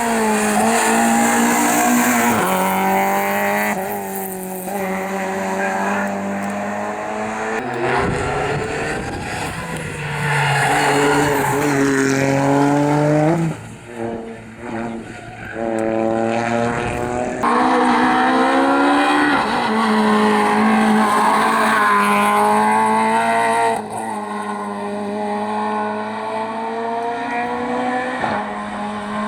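Rally car engines at full attack: the pitch climbs through the gears several times and drops back on lifting and braking. About halfway there is a brief lull with a few sharp pops.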